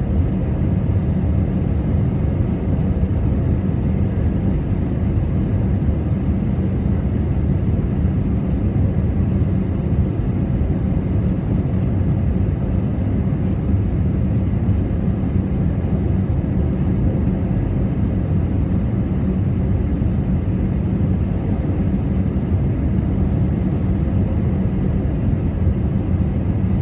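Inside an airliner cabin, a steady low rumble of jet engines and airflow with a faint constant hum as the plane taxis after landing.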